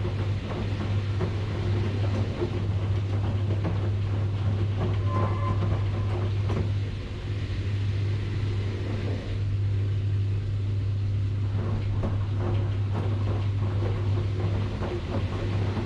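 Washing machine running: a steady low motor hum under the churning, sloshing noise of the drum, easing slightly for a few seconds midway.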